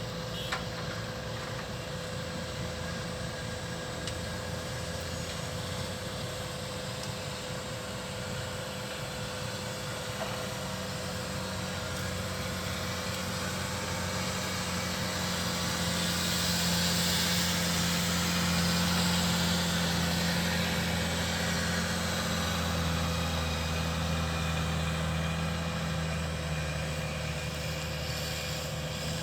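Diesel engine of a Volvo A25E articulated dump truck running steadily. It grows louder about halfway through, then eases off slightly, with a steady hum held throughout.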